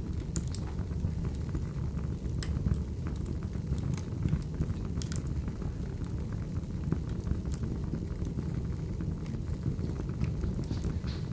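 Wood fire burning: a steady low rumble with scattered crackles and pops.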